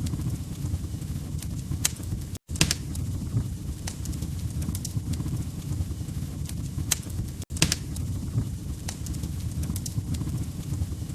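Wood fire crackling: a steady low rumble of burning logs with scattered sharp pops and snaps. The sound cuts out for an instant twice, once about two seconds in and again past the middle.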